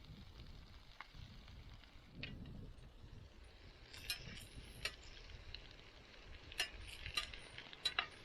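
Hash browns and bacon frying faintly in a frying pan, with a steady low sizzle. From about halfway on, a utensil clicks and clinks against the pan several times as the food is stirred.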